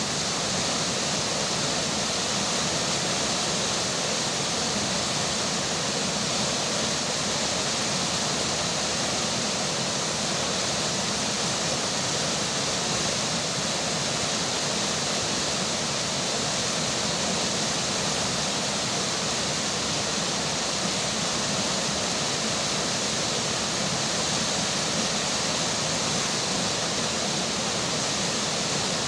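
River water flowing in a steady, even rush, with rainfall mixed in.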